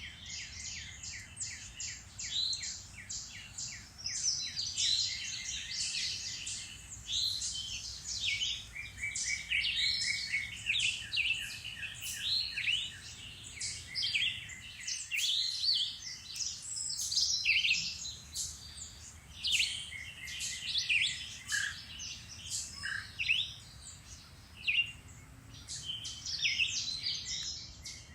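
Several songbirds singing and calling together in spring woodland: a dense, overlapping mix of chirps, whistled phrases and rapid trills.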